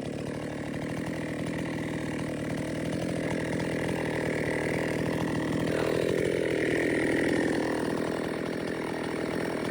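Chainsaw engine running steadily, swelling a little about six seconds in.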